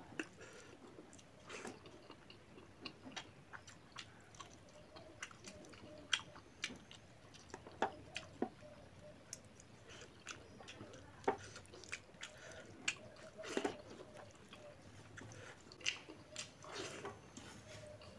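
A person chewing and biting boiled pork while eating by hand, with irregular wet smacks and sharp clicks.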